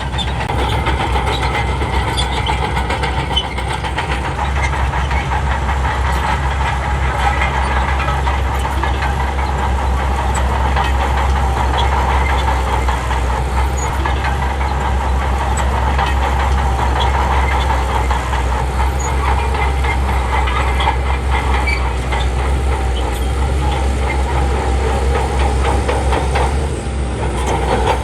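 Shantui bulldozer's diesel engine working steadily under load, with the clatter of its steel crawler tracks; the sound dips briefly near the end.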